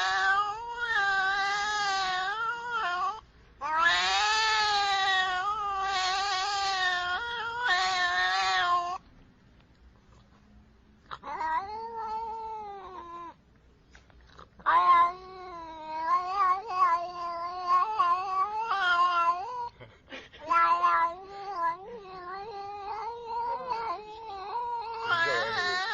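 A domestic cat yowling in a run of long, drawn-out calls, each lasting a few seconds, with a wavering pitch and short pauses between them.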